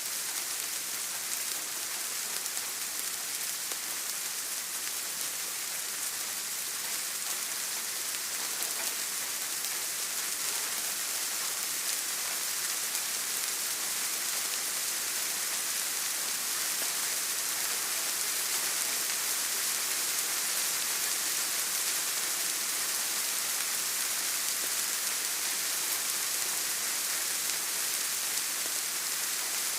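Steady rain, an even hiss of falling drops that keeps the same level throughout.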